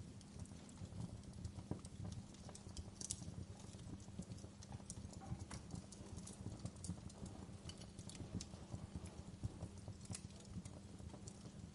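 Wood fire in a fireplace crackling and popping: irregular sharp snaps of burning logs, some louder than others, over a low steady rumble.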